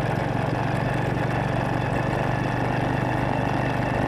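Motorcycle engine running at a steady speed while being ridden, an even hum with no revving.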